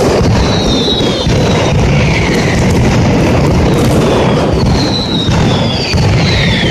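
Mascletà firecrackers going off in a dense, continuous barrage of bangs, with several whistling pieces gliding down in pitch over the din.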